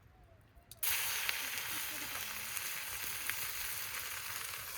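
Beef steak sizzling on a hot iron griddle plate over a campfire. The sizzle starts suddenly, just under a second in, and keeps going with a few crackles.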